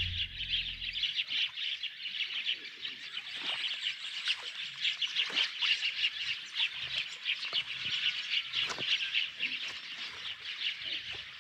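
Birds chirping continuously: a dense stream of rapid high chirps, with a few short lower calls among them.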